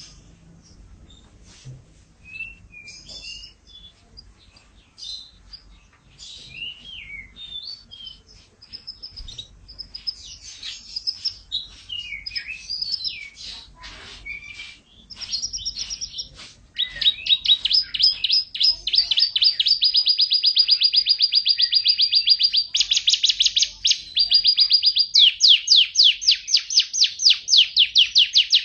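Canary singing: a varied run of chirps and short whistled notes, which about halfway through turns into long, rapid rolling trills, the loudest part of the song.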